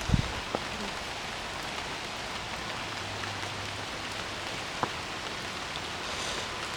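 Steady hiss of rain falling on the ground and water, with a low thump just after the start and a few sharp single ticks.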